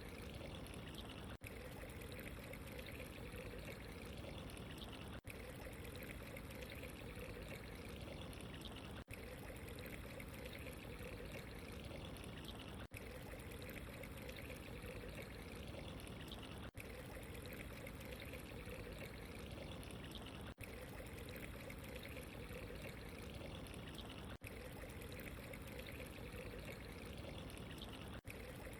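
Steady running water, trickling and pouring, with a very brief dip in level about every four seconds.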